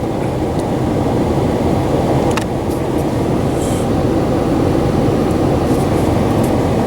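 Steady cabin drone of a 2013 Dodge Ram 1500 with its Hemi V8 cruising: an even mix of engine and road noise, with a brief faint click about two and a half seconds in.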